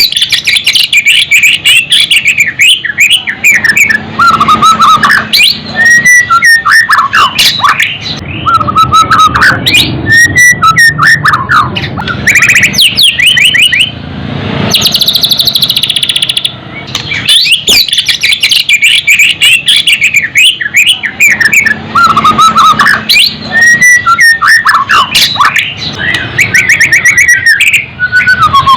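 White-rumped shama (murai batu) singing a loud, rapid, varied song of whistled phrases, trills and chattering notes, with only brief pauses.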